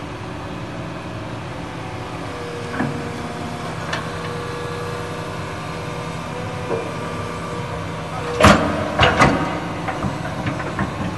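Excavator engine running steadily with a held whine, and a few sharp knocks; the loudest come as a cluster of three about eight and a half seconds in.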